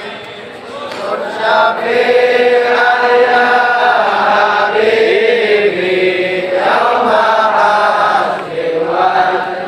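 Voices chanting a shalawat, the Arabic blessing on the Prophet, slowly and in long drawn-out held notes.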